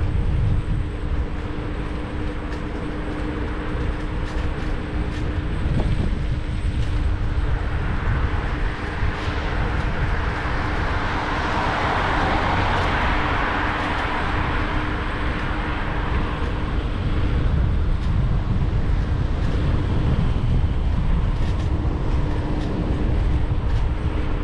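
Riding noise on a Xiaomi Scooter 1S electric scooter: wind and road rumble with a steady hum. Around the middle, traffic noise from a passing vehicle swells and fades.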